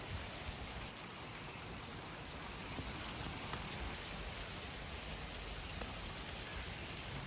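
Steady rain falling: an even hiss with a few faint drip ticks.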